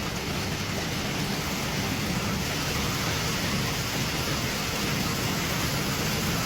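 Steady, even rushing hiss of water in a flash flood.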